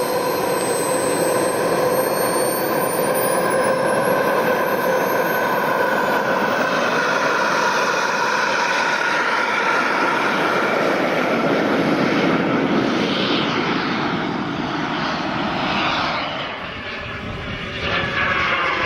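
Jet aircraft engine running with a steady roar and high whining tones that slowly glide in pitch. Near the end the sound dips and sweeps as the aircraft passes.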